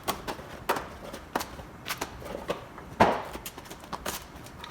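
The packaging of a rock-light kit being opened and handled: scattered taps, clicks and rustles, with the sharpest knock about three seconds in.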